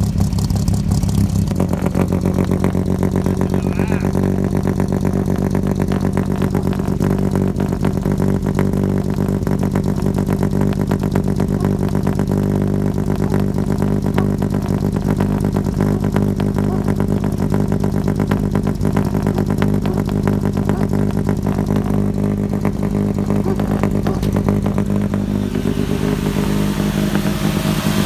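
1953 GMC truck's 235 inline-six running steadily just after a cold start on full choke, with a barking exhaust note through Fenton headers and glass-pack mufflers to stacks. Its note shifts slightly about a second and a half in, then holds steady.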